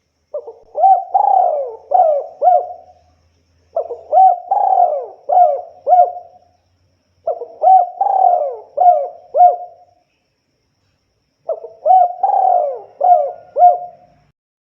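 Spotted dove cooing: four phrases of several quick coos each, with a pause of about a second between phrases.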